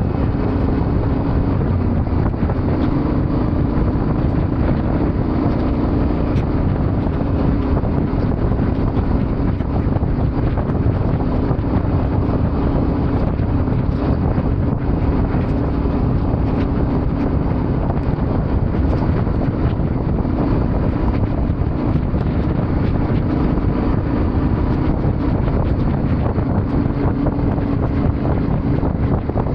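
Yamaha Ténéré 700's parallel-twin engine running at a steady pace while riding, with heavy wind noise on the microphone.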